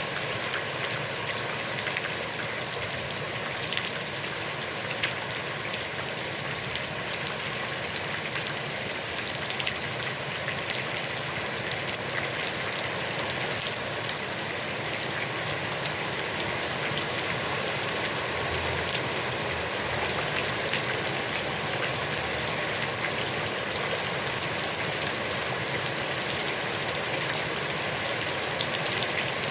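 Heavy rain falling steadily onto a pond, a dense hiss with countless individual drop patters.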